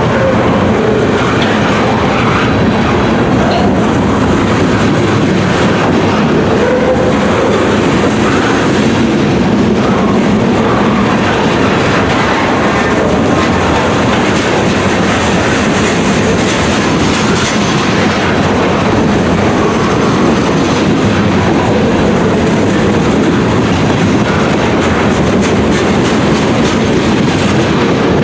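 A manifest freight train's cars rolling past, with a steady, loud noise of steel wheels on rail.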